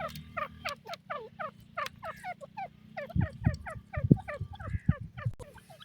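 Francolins (teetar) calling in a fast, unbroken run of short downward-sliding notes, about five a second. Low thuds mix in from about three seconds in.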